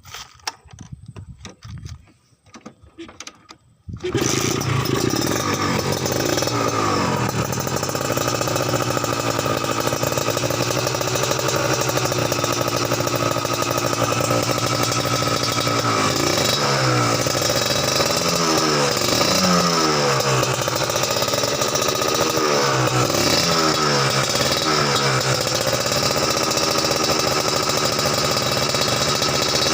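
Two-stroke motorcycle engine of a Yamaha 125Z fitted with a Kawasaki Ninja engine: a few faint clicks, then it starts about four seconds in and runs steadily. From about halfway on, the throttle is blipped repeatedly, the pitch rising and falling each time.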